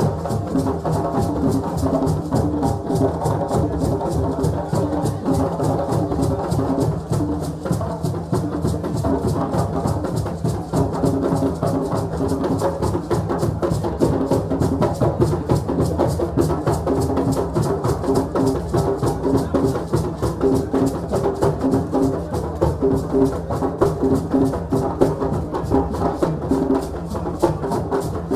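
West African celebration drumming: a fast, dense, unbroken rhythm of many strokes a second over a busy pitched layer.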